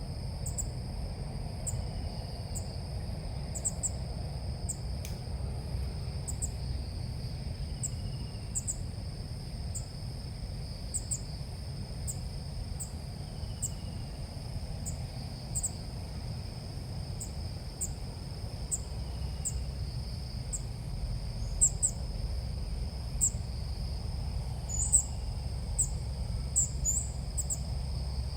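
Bulbul calls from a bird-lure recording: short high chirps repeating about once a second, with faint falling whistles every few seconds, over a steady high insect drone and a low rumble.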